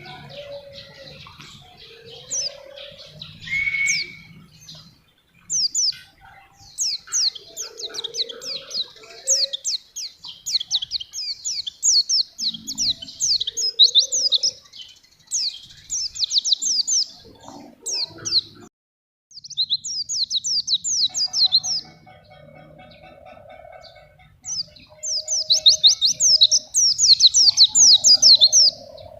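White-eye (pleci) singing vigorously in bursts of fast, high chattering notes, phrase after phrase with short pauses between them.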